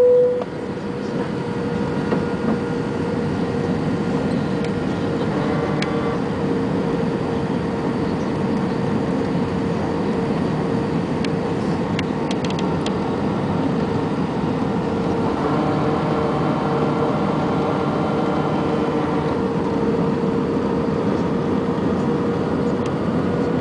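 Steady engine and airflow noise inside an airliner on approach to landing, with a constant hum and a few faint clicks.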